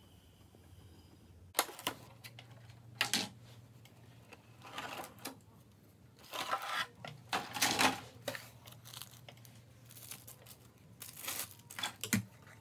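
Hands unpacking a boxed plastic figure statue: sharp plastic clicks and knocks mixed with short stretches of rustling and scraping packaging, in scattered bouts.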